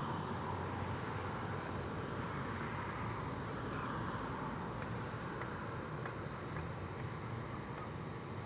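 Steady outdoor background of distant road traffic, a low even hum that swells slightly now and then.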